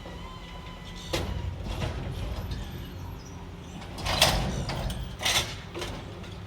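Side-loader garbage truck running with a steady low engine rumble, while its lifting mechanism gives off a series of short creaks and clanks, the loudest a little after four seconds in.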